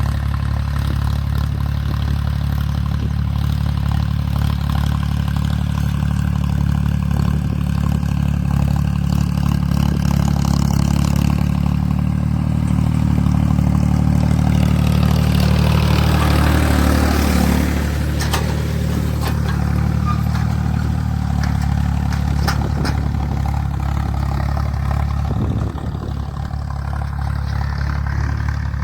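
Ford 3600 tractor's three-cylinder engine running steadily, pulling a 16-disc harrow. A little past the middle it swells louder and its pitch dips briefly, then it settles, with a slight drop in level near the end.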